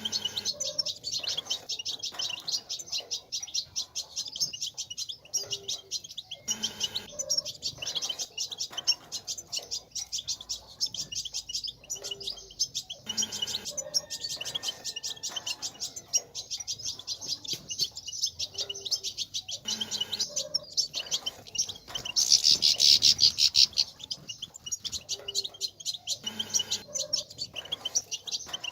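European goldfinch twittering: a rapid, unbroken stream of high chirps, louder for a couple of seconds about 22 seconds in.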